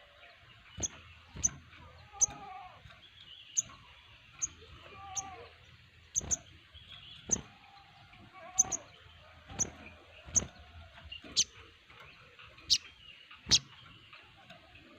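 A group of sogon birds calling: sharp, high chirps come about once a second, with softer warbling phrases between them.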